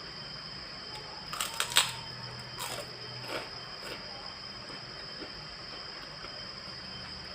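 Close-up eating sounds: a quick cluster of sharp clicks and crackles about a second and a half in, then a few softer clicks, over a steady hiss.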